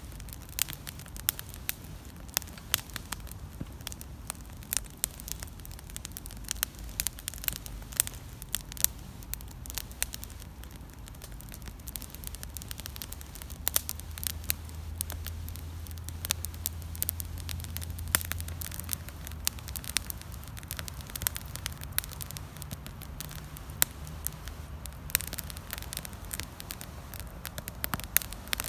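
Wood campfire crackling, with frequent sharp, irregular pops and snaps over a low steady rumble.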